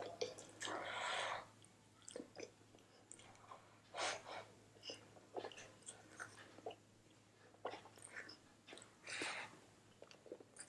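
Close-up chewing of a spicy chicken lollipop: soft wet mouth sounds and small clicks, broken by three short louder noisy bursts, about a second in, about four seconds in and near the end.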